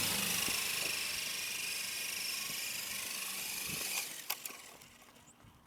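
Small electric RC helicopter's motor and rotors whirring with a faint whine that wavers slightly in pitch, dying away about four seconds in, followed by a few light clicks.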